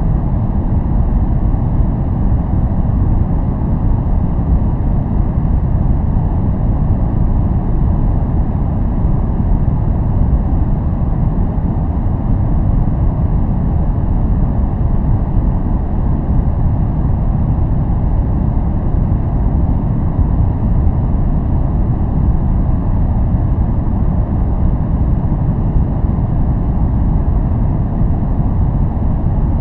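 Steady, unchanging noise played as a focus sound, a continuous hiss-like rush weighted heavily toward the low end so it sounds deep and rumbling, with little treble. There are no tones or separate events.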